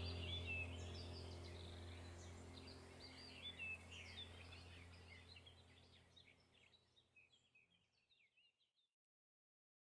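Birds chirping over a low, steady background music drone, the whole fading out gradually to silence near the end.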